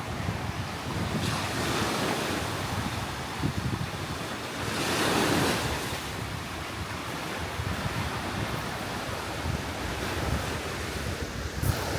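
Sea surf washing onto a beach, one wave swelling louder and falling away about five seconds in, with wind buffeting the microphone.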